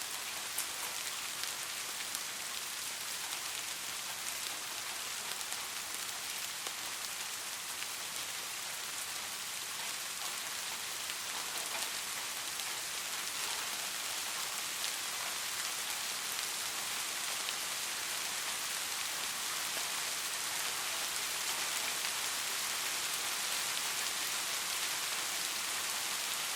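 Steady rain falling on a street: a dense, even hiss with fine scattered drop clicks, growing slightly louder toward the end.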